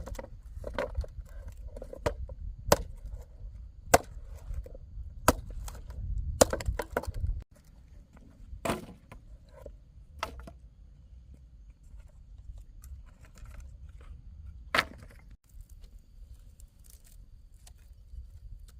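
Sharp knocks of a tool striking wood or bamboo: a blow about every second and a half for the first several seconds, then a few scattered blows.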